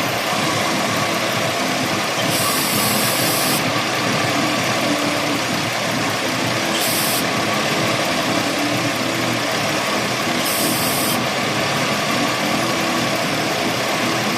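Chevrolet Venture's 3.4-litre V6 idling steadily, with three short hisses of aerosol cleaner sprayed around the intake hoses about two, seven and ten and a half seconds in, a test for an intake vacuum leak.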